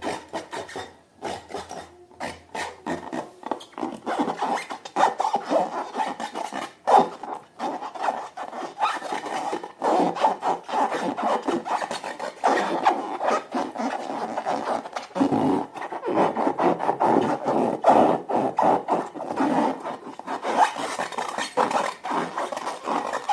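Slime being kneaded and stretched by hand, giving a continuous run of sticky crackling and squelching clicks.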